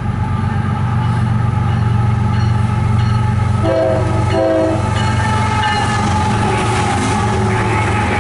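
Diesel locomotives of an approaching CSX empty coal train running with a steady low drone. About four seconds in, the locomotive horn sounds two short blasts.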